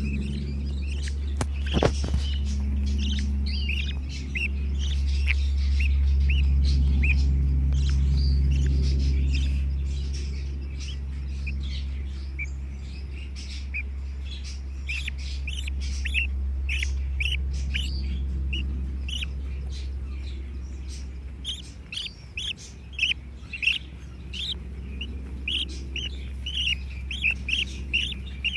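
Baby budgerigar chicks chirping: many short, high chirps, thickening into a quick, louder run in the last few seconds. A steady low hum sits underneath for most of it and fades out about two-thirds of the way through.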